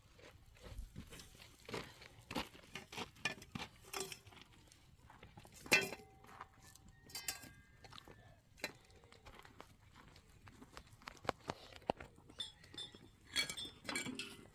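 Scattered light knocks and clinks, like dishes and utensils being handled, a few of them ringing briefly.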